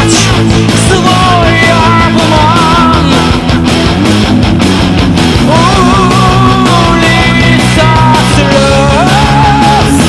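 Live heavy metal band playing loud: distorted guitars and drums under a high, wavering lead melody with vibrato and slides, heard through a festival PA.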